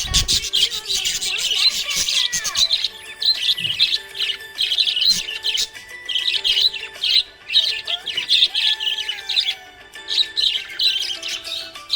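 Small pet parrots chirping and warbling in a dense, rapid stream of short high calls, with brief pauses, over faint background music.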